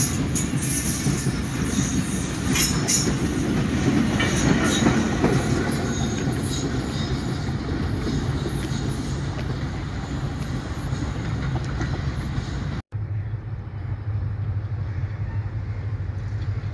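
Pakistan Railways freight train's covered wagons rolling past, the wheels clacking over rail joints, slowly fading as the brake van goes by and the train moves away. About 13 seconds in the sound cuts off abruptly to a quieter, steady low hum.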